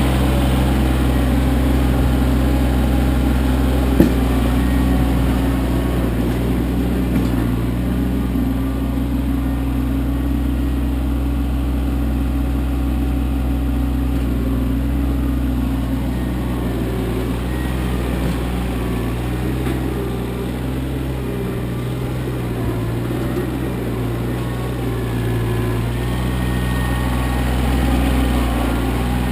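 Kioti CK25 compact tractor's diesel engine running steadily, its pitch and level shifting a little with the load while clearing snow. One sharp click about four seconds in.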